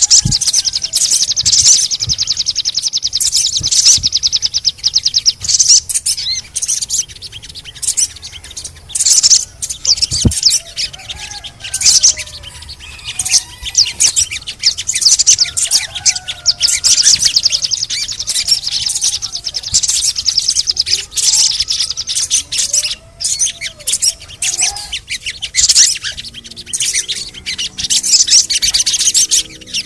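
Sogon (crimson sunbird) singing in dense, rapid, high-pitched chirps and trills. It is a lure recording played to get a silent caged sogon to start singing. Fainter lower whistled notes come in now and then.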